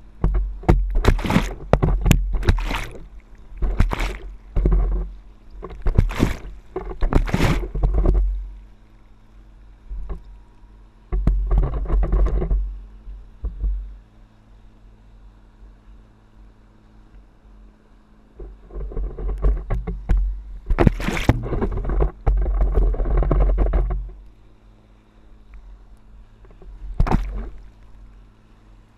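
Water rushing and splashing around a paddleboard riding a boat's wake, coming in surges a few seconds long with quieter gaps between, with heavy wind rumble on the microphone and a faint steady low drone underneath.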